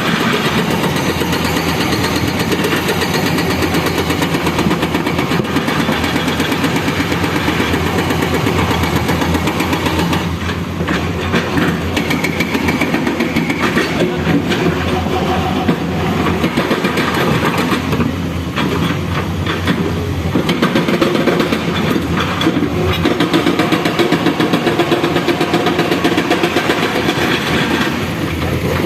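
Heavy construction-machine diesel engine running steadily and loud, with a fast even chugging pulse and some clatter.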